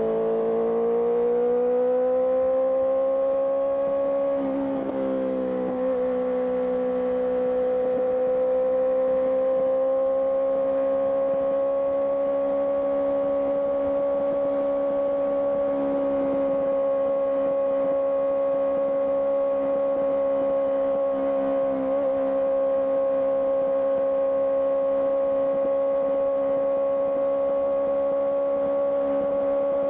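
Honda CBR650R inline-four engine through an IXIL IXRACE aftermarket exhaust, cruising at a steady engine speed. The pitch dips right at the start, climbs gently, wavers briefly about five seconds in, then holds steady.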